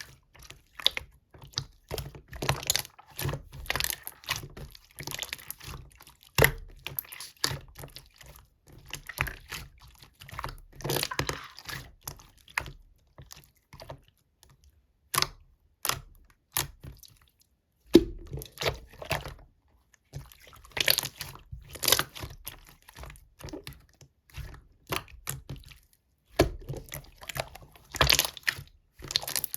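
Slime being squeezed, poked and stretched by hand: irregular runs of wet clicks, pops and crackles in short bursts, with brief pauses between handfuls.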